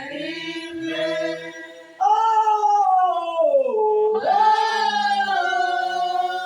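A group of worship singers holding long notes of a gospel chorus. About two seconds in, a louder lead voice comes in, slides down in pitch and back up, and holds on.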